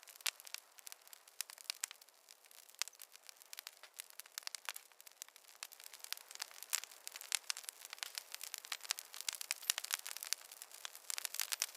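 Wood fire burning in a fireplace, with irregular sharp crackles and pops over a faint hiss.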